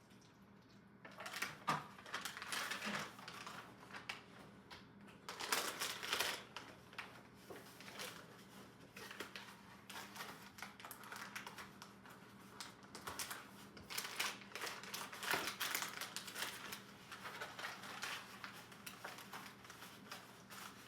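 Plastic MRE packaging (the ration heater bag and food pouch) crinkling and rustling in irregular bursts as it is handled and folded.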